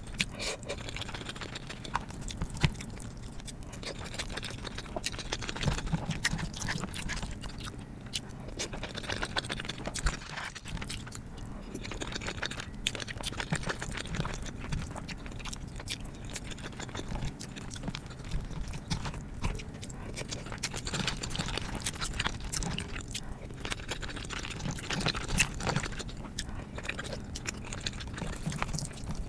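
Close-miked chewing and wet mouth sounds from eating soft baked pasta, a continuous run of small smacks and clicks, with the occasional click of a fork in a plastic tray.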